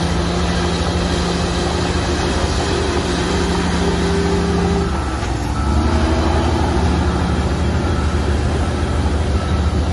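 Diesel engine of heavy earthmoving machinery running steadily; its note changes about five seconds in and it gets a little louder.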